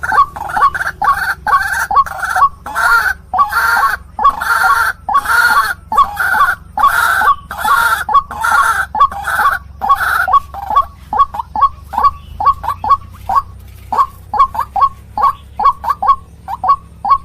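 White-breasted waterhen calling over and over. For about the first ten seconds the notes are loud and full, about one and a half a second; after that they are shorter and come faster, several a second.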